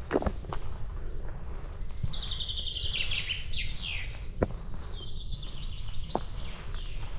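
A songbird sings a rapid trill of high notes that slides downward, starting about two seconds in and lasting some three seconds. Underneath are scattered footsteps on a path and a steady low rumble of breeze.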